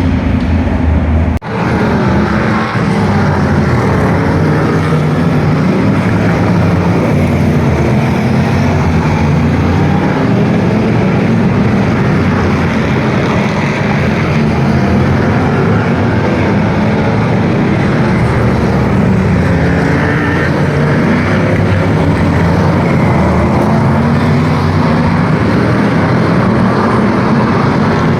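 Motor vehicle engines running loudly and steadily, with the pitch shifting up and down, and a brief sudden break about a second and a half in.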